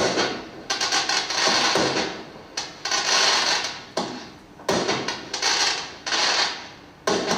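Consumer 1.4G firework cake firing shot after shot: a string of sudden bangs, each fading off in a hiss, coming irregularly about once a second.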